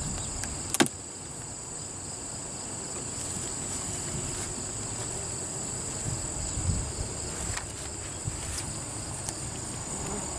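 Steady, high-pitched insect trilling with a sharp knock about a second in.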